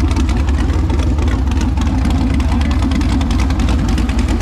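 Texas Speed 416 ci LS3 V8 running steadily at a fast, even beat, loud and low-pitched.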